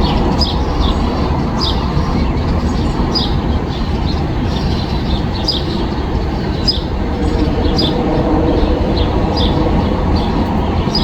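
Backyard birds chirping, short high notes repeated every half second or so, over a steady low rumble.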